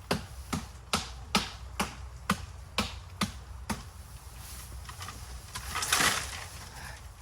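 A blade chopping into bamboo: nine sharp, evenly paced strikes about two a second, then a longer crackling rustle about six seconds in.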